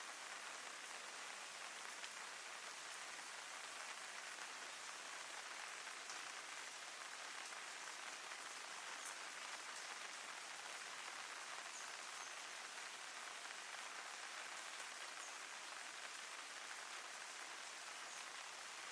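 Steady rain falling, an even hiss of drops on surfaces with a few faint drop ticks.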